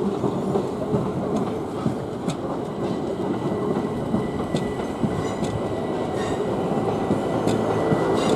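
Southern Class 377 Electrostar electric multiple unit running past on the tracks below, a steady rumble of wheels on rail with occasional sharp clicks and a faint steady high tone.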